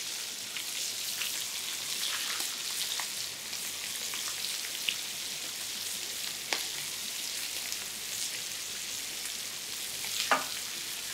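Chicken thigh pieces frying in butter in a skillet over high heat: a steady sizzle as chopped onion is spooned into the pan, with a few light taps.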